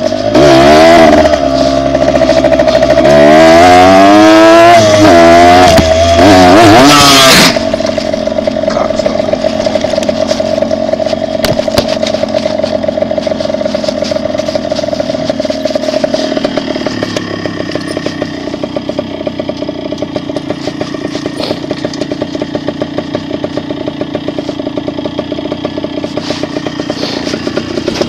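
Dirt bike engine revved up and down several times, then settling about seven seconds in to a steady idle.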